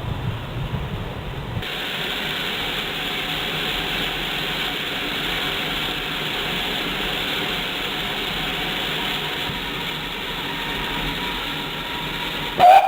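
Steam locomotive hissing steadily as steam blows off while it stands, after a brief rumble of the train running at the start. A short, loud, pitched sound comes just before the end.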